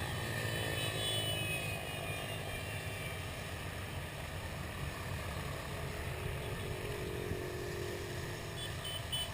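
A group of motorcycle engines running together in a steady low rumble, with a few engine tones sliding slowly down in pitch.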